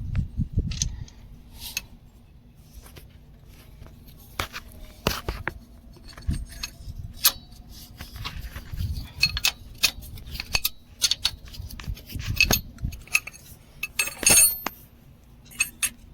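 Metal tools clinking and knocking irregularly as a 19 mm wrench works loose the mounting bolts of a truck's starter motor, with a quick run of clinks about fourteen seconds in.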